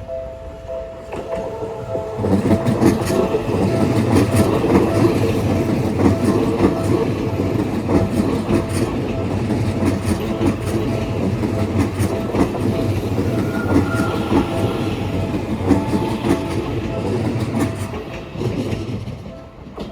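Seibu train passing over a level crossing, wheels clattering over rail joints for about sixteen seconds before fading near the end. Throughout, the crossing's electronic warning bell keeps up its steady two-tone kan-kan ringing.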